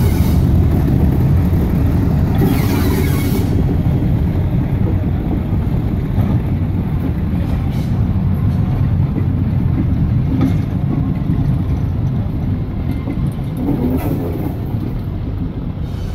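Vintage passenger carriages and an open wagon of a tourist train rolling over a level crossing: a steady low rumble from the wheels on the rails, fading slightly as the last coach passes. A short hiss about three seconds in.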